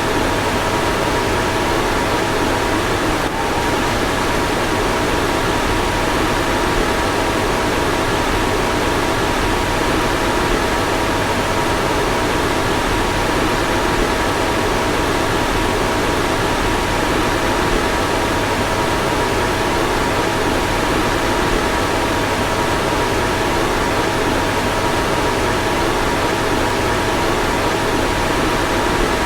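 A car's fan running steadily: an even rushing hiss with a faint constant hum in it. There is a slight click about three seconds in.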